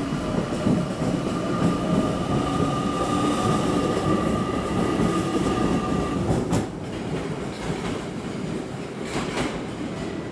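Electric train moving along the station platform: steady running noise with a whine that fades about six seconds in, and wheels clicking over rail joints a few times near the end.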